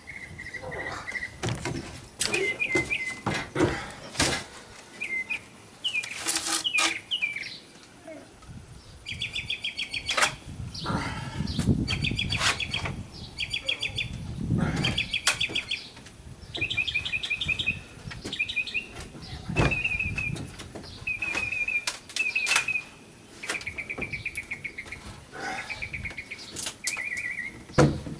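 Songbirds singing in rapid trills, on and off throughout, over the knocks and scrapes of plywood pieces being handled and set against each other in a stripped boat hull.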